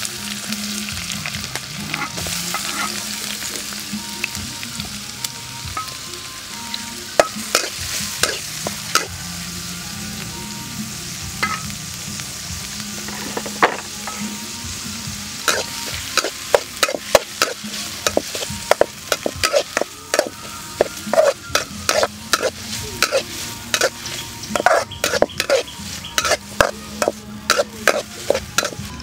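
Chopped onions and red chilies sizzling in hot oil in a steel wok, with a metal spatula clacking and scraping against the pan as they are stirred. The sizzle starts as soon as the onions hit the oil, and the spatula strokes come thick and fast in the second half.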